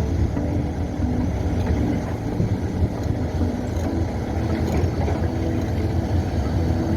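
Piling rig running on a construction site: heavy diesel machinery with a steady deep rumble as it drills a steel pipe pile.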